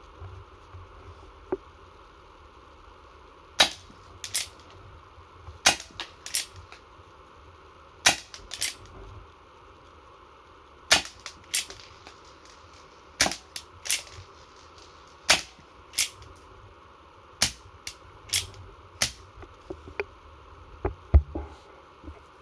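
Marushin SAA .45 gas-powered replica Single Action Army revolver being fired repeatedly: sharp cracks, mostly in pairs about half a second apart, repeating every two seconds or so.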